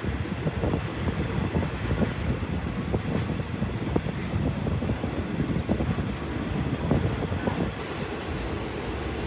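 Hitachi RHN diesel railcar on the move, heard from aboard: a steady rumble of wheels and carriage, full of short rattles and knocks, easing a little near the end.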